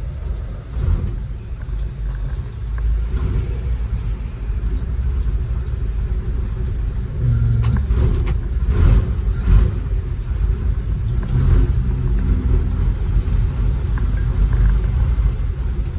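1950 Dodge pickup's flathead straight-six idling just after being revived from about 45 years parked, warming up. It runs as a steady low rumble with a few louder swells around the middle.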